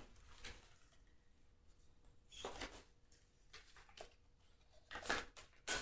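A few faint, short handling noises, light rustles and knocks in a small room, with the loudest ones near the end.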